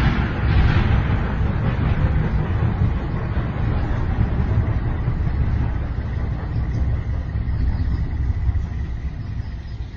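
Slowed-down, heavily reverberant train rumble that fades gradually. A faint steady high tone joins in the second half.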